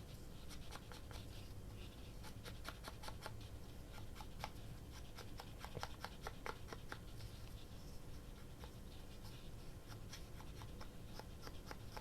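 Faint paper handling: many small clicks, scratches and rustles as paper and stickers are moved and rubbed on a work surface.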